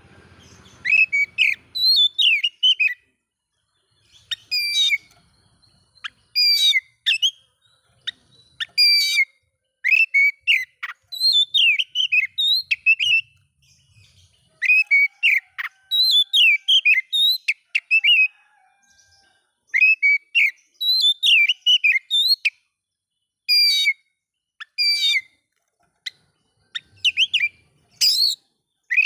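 Oriental magpie-robin (kacer) singing: loud, clear whistled phrases of quick sweeping notes, delivered in bursts about a second long with short pauses between them.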